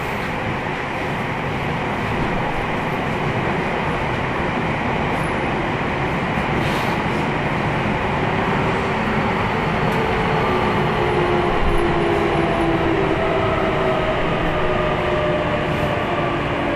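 Running noise inside a Keio 1000 series electric train with a Toyo GTO-thyristor VVVF inverter: a steady rumble of wheels on rail. About ten seconds in, the inverter's whine comes up as several tones slowly falling in pitch, as the train slows under braking.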